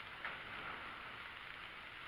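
A faint, steady hiss of background noise, with one small click about a quarter of a second in.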